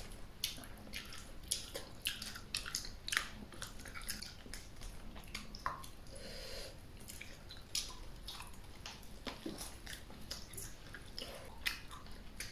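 A person gnawing and sucking meat off a braised duck head held to the mouth: wet chewing, lip smacks and sucking, many small clicks and pops.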